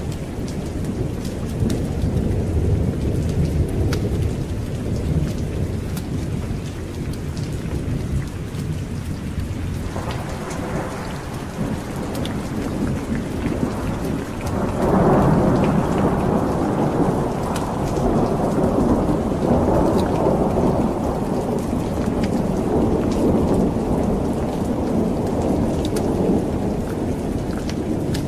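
Steady rain with rolling thunder: a low rumble in the first half, then a louder, brighter roll of thunder breaks about halfway through and rumbles on.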